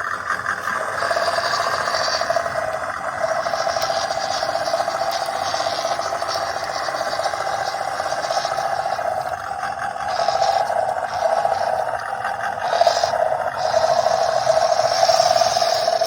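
WPL B14km RC truck's electric motor and two-speed gearbox whining steadily as it drives, the level rising and dipping a little with throttle.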